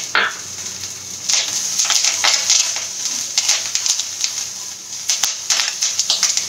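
Curry leaves and green chilies spluttering and crackling in hot oil in a wok as they are stirred with a spatula, a dense run of small pops starting about a second in. A single knock at the very start.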